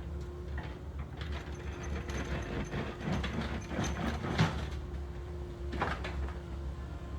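Engine running with a steady low hum, with a run of knocks and metallic clatter over it, the loudest knock a little past the middle and one more near the end.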